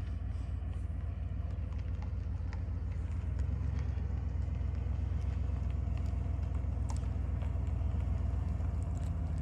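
Truck engine running at low revs as the truck reverses slowly down a boat ramp, heard from inside the cab. The low engine note shifts slightly about three seconds in.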